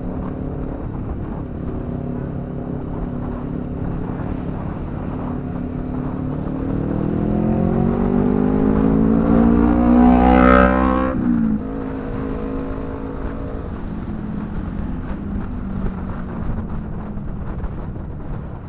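Motorcycle engine running steadily, then its pitch climbs for about five seconds as it accelerates before dropping sharply at a throttle lift or gear change, and running on evenly.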